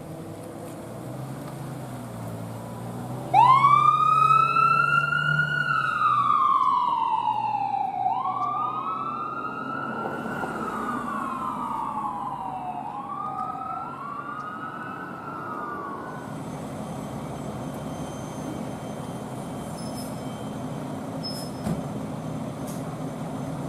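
Emergency vehicle sirens on a wail: one starts suddenly a few seconds in with slow rising and falling sweeps, and a second siren joins slightly out of step. Both stop a little past halfway, leaving steady traffic noise.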